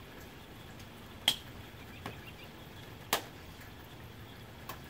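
Soft rain on a tin roof, a steady hiss, broken by four single heavier drops striking with sharp taps. The two loudest come about a second and a quarter and three seconds in, with fainter ones around two seconds and near the end.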